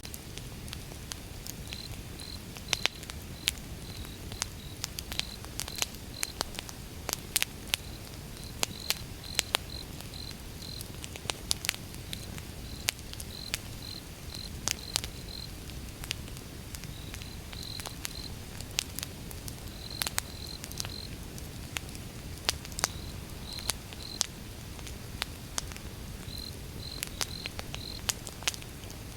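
Wood fire burning, with irregular sharp crackles and pops over a low rumble. A high chirping comes in short runs of a few notes throughout.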